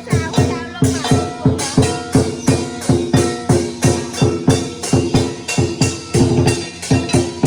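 Lion dance percussion: a drum beaten in a fast, steady rhythm of about three to four strikes a second, with cymbals and gong ringing on between the beats.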